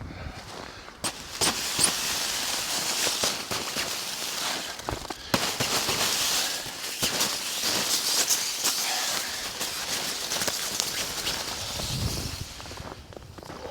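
Snow being brushed and swept off the tent wall by hand: a continuous crunching, crackling scrape of snow against tent fabric, starting about a second in and dying away near the end.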